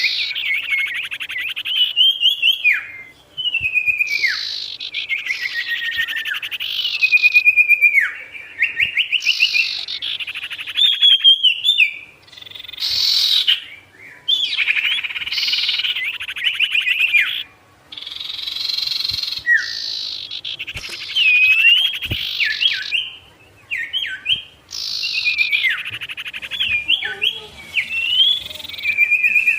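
A sirtu songbird singing gacor: phrase after phrase of fast rattling trills and sharp downward-sweeping whistled notes, broken by short pauses.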